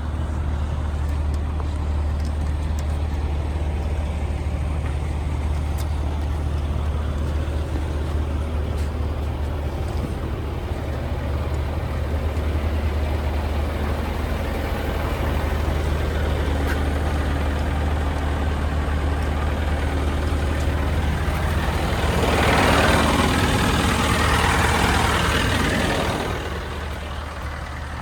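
Scania G 410 truck's 13-litre inline-six diesel idling steadily with a low hum. Near the end, a louder hissing rush lasts about four seconds and then stops.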